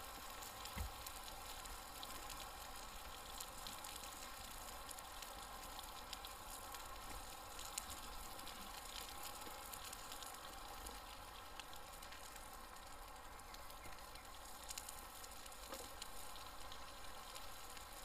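Steak burgers frying in small pans over an open campfire: a steady sizzle with scattered small crackles and pops.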